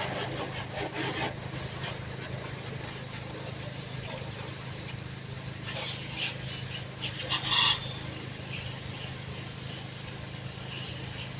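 Steady low hum of an idling engine, with short bursts of rough rubbing noise in the first second and again about six to eight seconds in, the loudest near seven and a half seconds.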